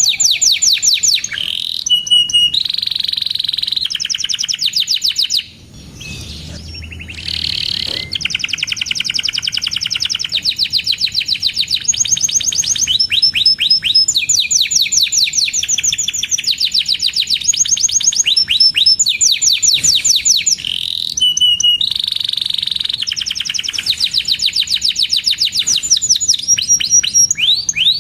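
Domestic canary singing a long, continuous song of rapid trills and quickly repeated chirping notes, with a short break about five and a half seconds in.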